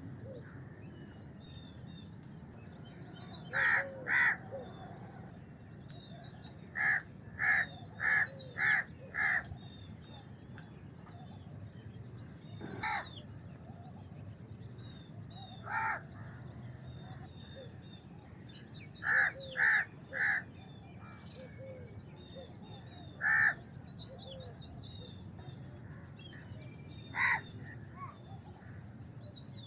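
House crow cawing in short runs of two to four harsh caws, with single caws between them, thirteen caws in all. Small birds twitter continuously in the background.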